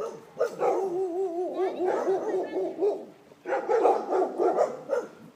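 A dog howling and whining in two long wavering stretches, broken by a short pause about three seconds in.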